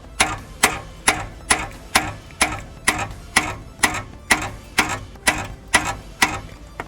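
Hammer striking a manual impact driver in a steady rhythm, about two blows a second, each a sharp metallic strike with a short ring, to shock loose the brake disc retaining screws.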